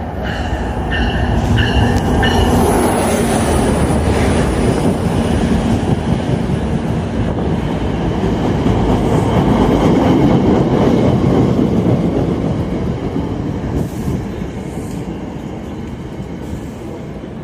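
NJ Transit commuter train with bilevel coaches passing close by: a loud, steady rumble of wheels on rail and rolling cars that builds in the first couple of seconds, holds, then eases off over the last few seconds as the train goes by.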